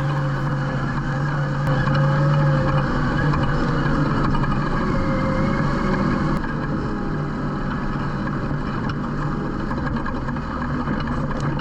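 Off-road side-by-side's engine running steadily under way on a rock trail, a low drone with small shifts in pitch, stronger for the first few seconds and then easing a little.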